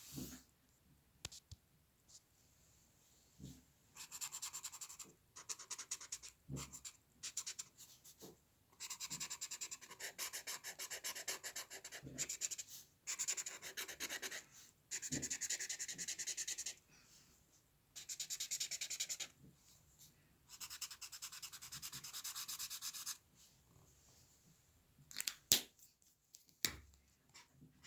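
A drawing tool scratching on paper in long runs of rapid back-and-forth shading strokes, with short pauses between runs. A few sharp taps near the end.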